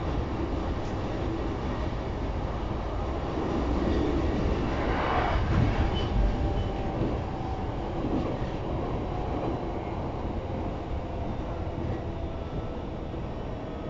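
Running noise heard inside a JR East E233-series electric commuter car: a steady rumble of wheels on rail. It swells about a third of the way in, then eases off through the second half.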